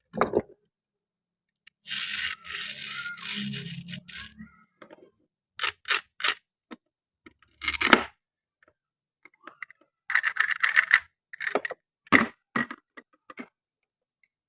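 Plastic toy kitchen pieces being handled: sharp clicks and knocks, a rasping scrape of about two seconds starting about two seconds in, and a quick rattling run around ten seconds in.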